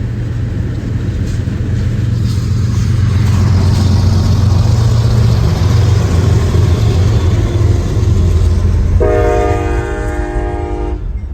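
Diesel locomotive of a slow freight train passing close, its heavy engine rumble swelling and then easing. Near the end it gives a horn blast of about two seconds, several notes sounding together as a chord.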